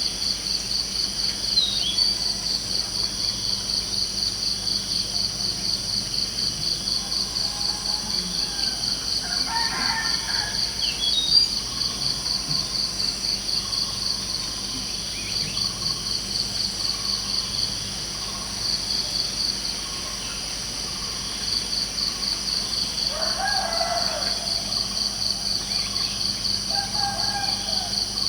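Crickets chirping in a steady, rapid pulsing trill, easing off for a few seconds past the middle, with a few short bird calls about ten seconds in and again near the end.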